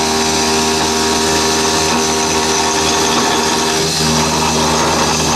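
Small CNC milling machine running a cut: the spindle motor's steady hum and whine under the rasp of the milling cutter working through the material. The pitch and the cutting noise shift a little about four seconds in.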